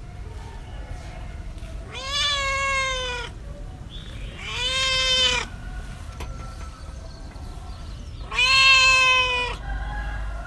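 A cat meowing three times, each meow a long drawn-out call of about a second, spaced a few seconds apart.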